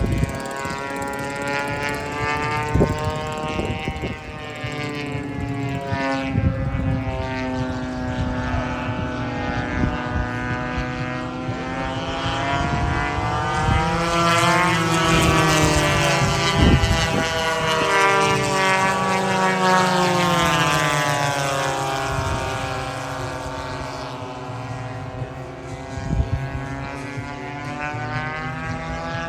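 Several large gas-powered RC warbird engines, one a Zenoah GT 80 two-stroke twin in a P-51D Mustang, droning as the planes race past, their pitches rising and falling and crossing one another. The loudest pass comes in the middle, and there are a few brief thumps.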